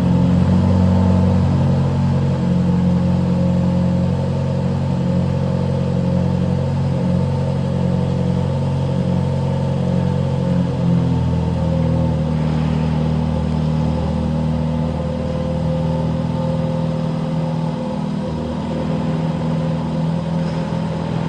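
Aston Martin Valhalla's twin-turbo V8 running at a steady, raised idle just after a cold start. About eleven seconds in its note shifts and settles a little lower.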